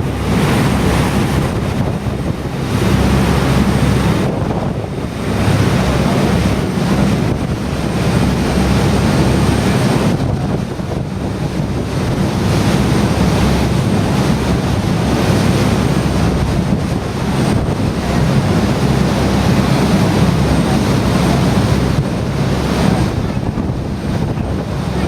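Wind buffeting the microphone aboard a moving ferry, over the rush of water and a low, steady rumble from the boat.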